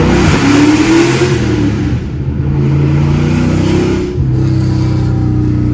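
Supercharged 2001 Ford SVT Cobra 4.6-litre DOHC V8, straight-piped through long-tube headers, an X-pipe and a muffler delete, pulling hard with its pitch rising over the first second. It eases off about two seconds in, then runs on loud and steady under throttle with another brief lift about four seconds in.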